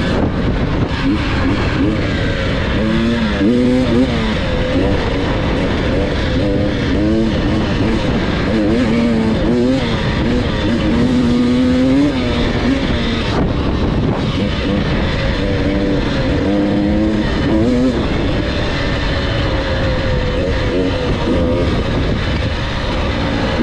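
Dirt bike engine being ridden off-road, its pitch rising and falling again and again as the throttle is opened and closed, over a constant noisy rush.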